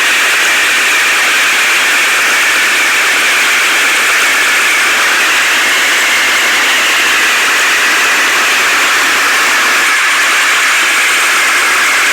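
Heavy machine engine running steadily, heard as a loud, even rushing noise with little bass.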